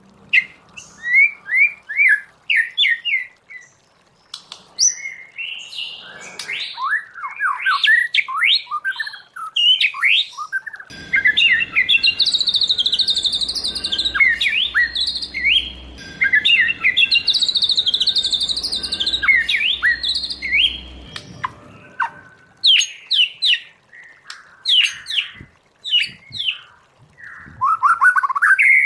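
White-rumped shama singing a varied, loud song of quick whistles, chirps and sweeping notes. In the middle there is a denser unbroken stretch of rapid notes, with sharper separate phrases before and after it.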